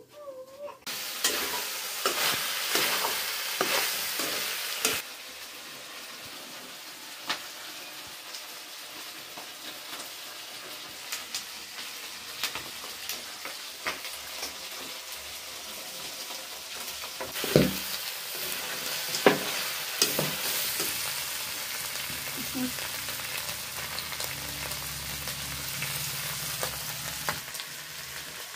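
Chicken pieces frying and sizzling in a steel kadai on a gas stove: a steady hiss, louder for the first few seconds and then quieter. Sharp clinks of metal on steel come now and then, the loudest in the second half.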